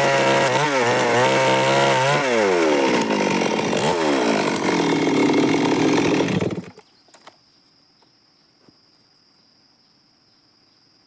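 Stihl MS 382 two-stroke chainsaw running under load while sawing wood, its engine pitch dipping and rising several times, then stopping abruptly about two-thirds of the way through. After it stops, a couple of light clicks and a faint steady high-pitched insect buzz remain.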